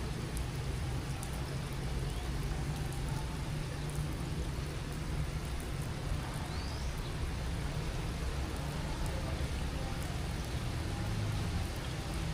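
Steady rainfall, an even hiss with scattered faint drop ticks, over a constant low rumble.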